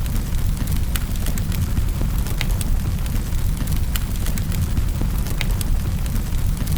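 Wood fire burning in a fireplace: a steady low rumble of the flames with sharp crackles and pops every second or so.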